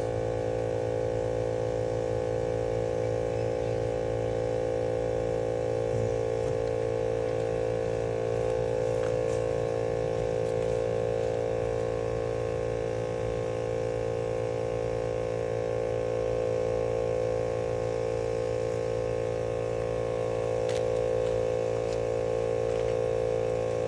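Steady electric hum of a smoke leak tester's air pump, feeding smoke into a car's cooling system to find a coolant leak; it cuts off suddenly near the end.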